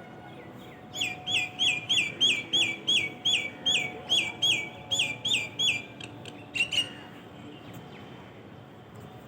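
A bird calling a fast series of repeated, sharply downslurred notes, about three a second for some five seconds, then two last notes, over faint steady outdoor background noise.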